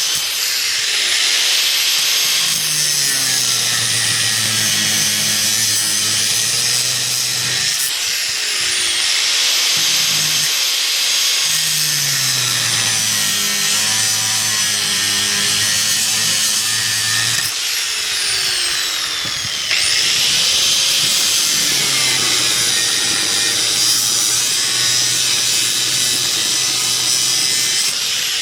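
A handheld electric power tool running under load for the whole stretch, a harsh high-pitched grinding noise over a motor whine. Twice the whine sags in pitch as the tool bogs down, then jumps back up.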